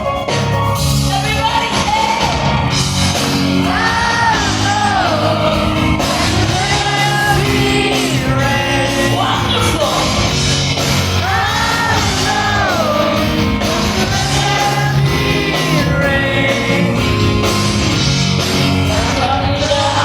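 Rock band playing live with a woman singing the lead vocal, recorded from the audience in a concert hall.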